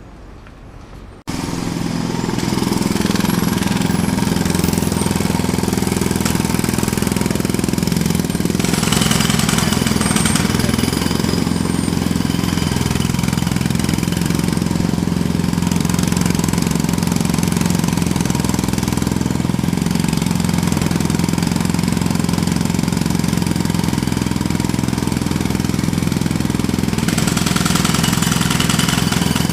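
Jackhammer starting abruptly about a second in, then hammering continuously at a rapid, steady rate.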